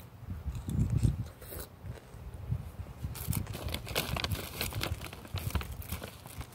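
Close-up chewing of a crunchy chip: many sharp, crisp crunches, thickest in the second half. Low rumbles of wind on the microphone near the start.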